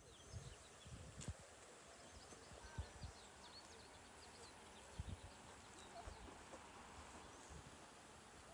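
Faint open-air ambience with scattered small bird chirps. A few soft low bumps come within the first five seconds.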